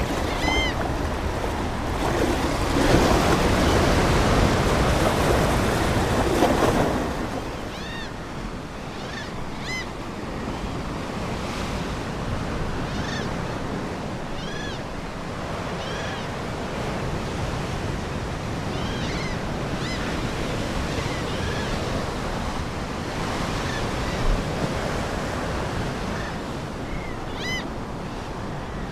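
Ocean surf washing in, a louder surge of waves over the first several seconds that then settles to a gentler wash. Seagulls give short calls again and again over the surf.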